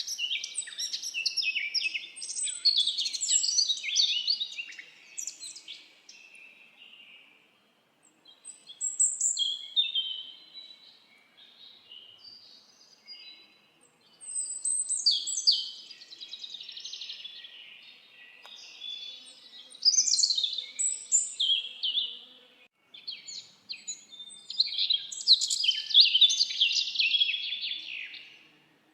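Several songbirds singing in a forest: rapid chirps and trills in bursts of a few seconds, with short quieter gaps between them.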